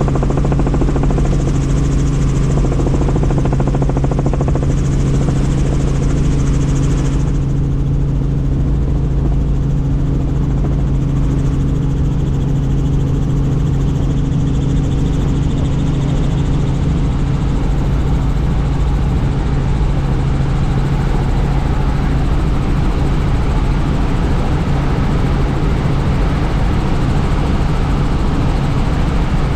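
Helicopter in flight, heard from inside the cabin with the doors off: a steady engine and rotor drone over a constant low hum. A rushing-air hiss over it drops away sharply about seven seconds in.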